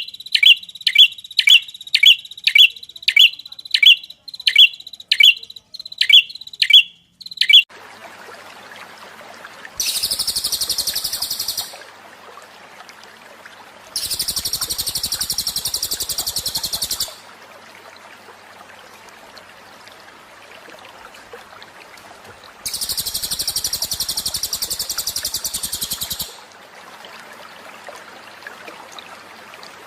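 Small songbird calls: a sharp high chirp repeated about twice a second, then, after a change of recording about 7 seconds in, three long, very fast, high trills over a steady hiss.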